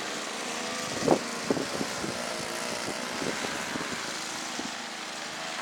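Gasoline snow blower engine running steadily, with a few short sharp sounds about a second in.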